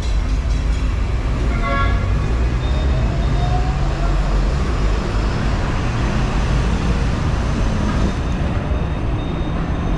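Hong Kong double-decker tram running along its street track: a steady low rumble mixed with surrounding road traffic, with a brief pitched sound about two seconds in.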